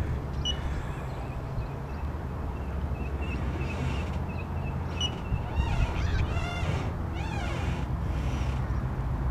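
Wind rumbling on the microphone while small birds chirp, with a quick run of rising-and-falling whistled notes about midway through.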